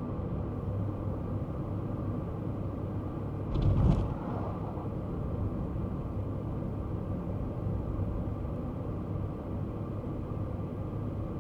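Kei car driving: steady low engine and road rumble, with one brief thump about three and a half seconds in.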